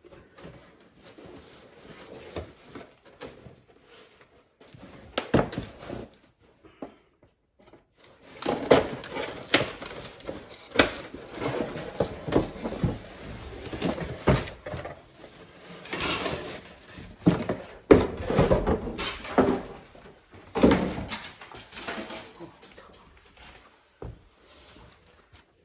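Irregular knocks, clicks and rubbing of hands working on a front-loading washing machine during a door-seal replacement, sparse at first and busier from about a third of the way in.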